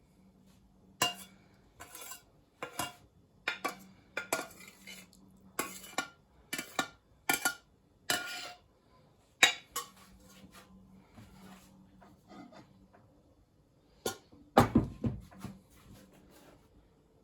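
Metal spoon clinking against a soup bowl, a sharp clink about every second for the first half. Then a louder clatter of dishes about fifteen seconds in.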